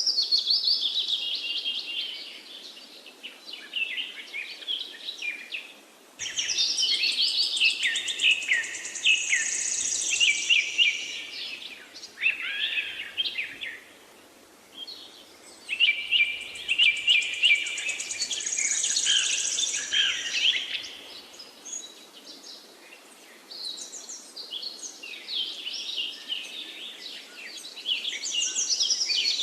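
Songbird singing long, rapid, varied phrases of several seconds each, with short pauses between, over faint background hiss.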